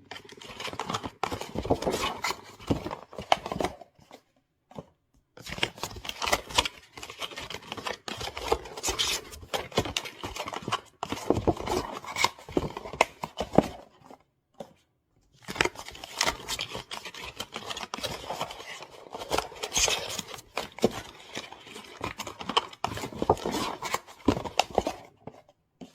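Paper rustling and cardboard boxes scraping and tapping as sheets are packed by hand into small boxes, in three long stretches broken by two brief silences.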